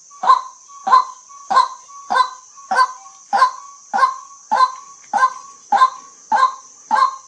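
White-breasted waterhen giving its repeated honking "kwak" call, about a dozen short, evenly spaced notes, a little under two a second.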